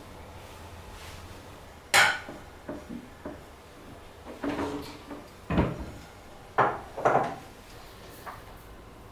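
A run of separate knocks and clatters from kitchenware being handled and set down, the sharpest and loudest about two seconds in, with about seven more spread through the rest.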